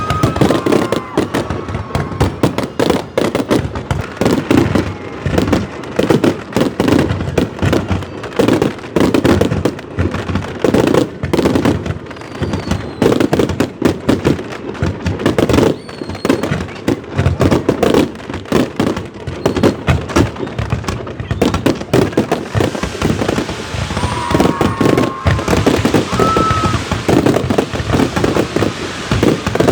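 New Year fireworks display: a dense, continuous barrage of bangs and crackles, with a few short whistles now and then.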